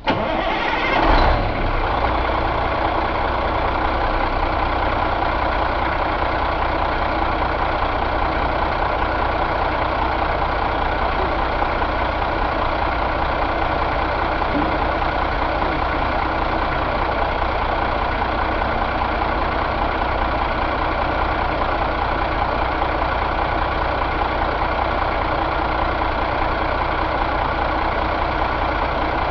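Caterpillar C12 inline-six diesel engine running on a test stand: a brief surge about a second in, then a steady idle.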